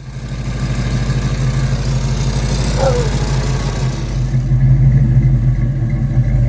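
Car engine running with a steady low drone and a hiss that fades about two-thirds of the way through; a short falling squeal sounds about halfway.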